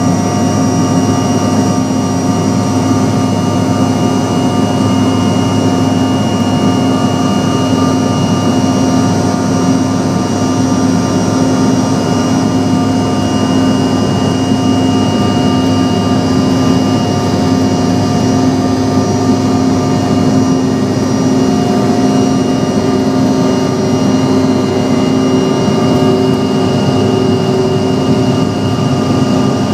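Bombardier CRJ-700's rear-mounted GE CF34 turbofans heard from inside the cabin: a steady drone with constant whining tones over a rumble and airflow hiss, holding at a fixed power setting.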